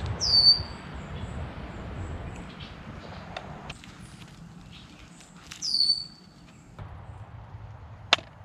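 Wild birds calling over faint outdoor background noise, with a clear whistled call sliding downward about half a second in and more calls around six seconds in. A single sharp click comes near the end.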